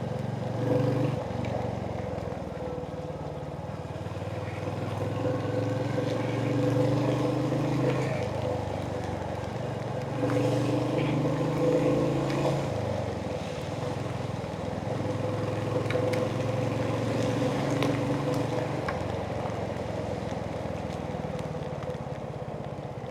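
Royal Enfield Hunter 350's single-cylinder engine running while riding, its note swelling twice as the throttle opens and easing off in between, over road and wind noise.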